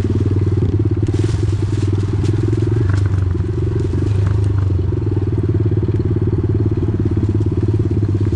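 Off-road vehicle engine running steadily while riding along a dirt trail, its firing pulses holding an even speed throughout, with a few light clicks from the trail.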